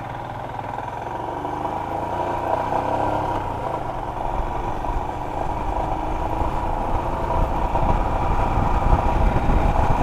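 Motorcycle engine running at low road speed, with wind buffeting the microphone; the rumble grows louder in the second half.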